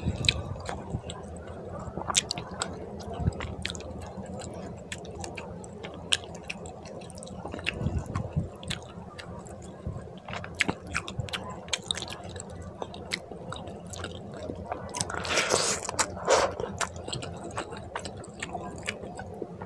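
Close-miked eating sounds of rice and fish curry eaten by hand: wet chewing and squishing, with many small sharp clicks of the mouth. A louder, noisier stretch of about a second and a half comes near three-quarters of the way through.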